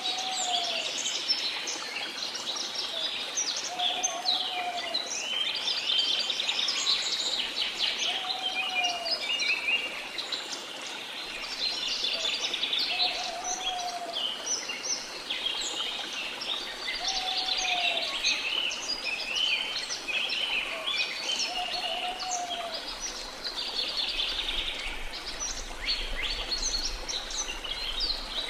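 Many jungle birds chirping and twittering without pause over the steady rush of a waterfall. A short, lower arched call repeats about every four to five seconds, six times.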